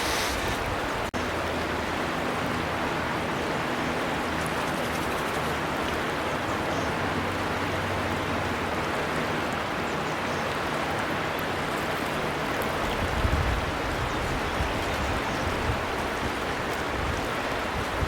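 River water flowing with a steady, even rushing, which briefly cuts out about a second in.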